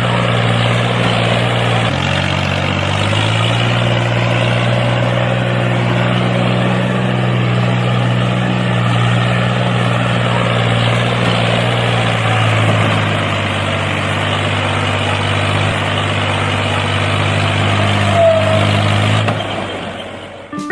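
Engine-like drone of a vehicle running steadily, its pitch stepping slightly about two and three seconds in, then fading out near the end.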